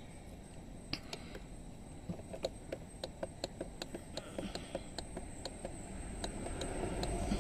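Light, regular ticking, about three ticks a second, beginning about two seconds in, over a faint low hum that swells slightly near the end.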